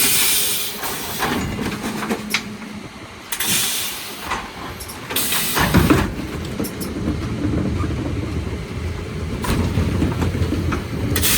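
Mercedes Econic refuse truck at work: several short bursts of air hiss, with the engine running louder and heavier from about halfway through.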